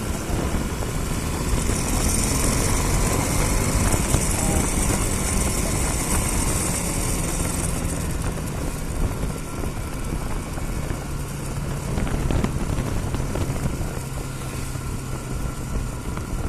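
Bajaj Pulsar NS200's single-cylinder engine running steadily while the motorcycle is ridden along the road, with wind rushing over the microphone, stronger through the first half.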